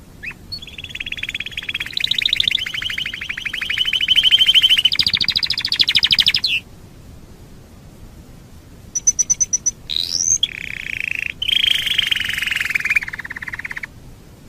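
Domestic canary singing in long, fast rolling trills, with a pause of a couple of seconds in the middle, then a quick run of short chips, a rising note and another long trill.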